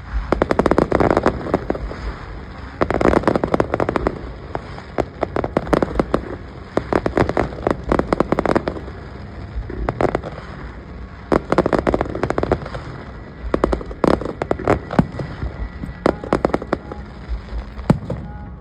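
Aerial fireworks: rapid volleys of crackling pops in clusters every couple of seconds, over a low rumble.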